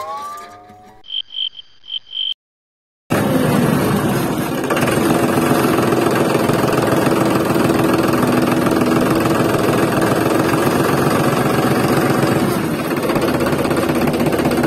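Small petrol engine of a mini water pump running steadily at a fairly constant speed. It starts loud after a short silent gap about three seconds in, following a few brief high beeps.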